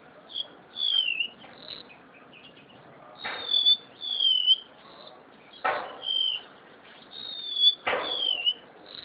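Golden-bellied gerygone (remetuk laut) singing: a run of high, thin whistles that slur downward, repeated every second or so. Three short thumps fall between the phrases.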